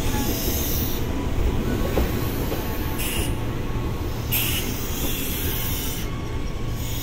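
Japanese-built electric commuter train running past close by: a steady rumble of wheels on the rails, with hissing that swells and fades as the cars go by.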